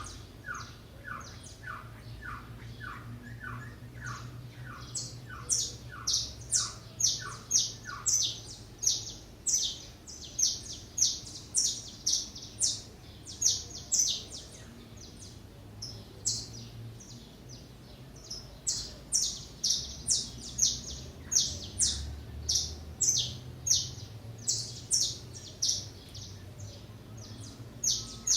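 Small songbirds at a feeder chirping repeatedly: short, sharp, high notes, several a second, with a brief lull in the middle. For the first eight seconds another bird gives a lower series of short falling notes, about two a second.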